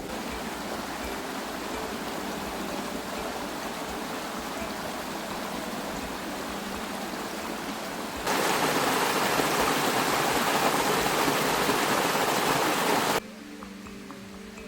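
Running water, a steady rushing flow, that turns suddenly louder about eight seconds in and drops back abruptly near the end.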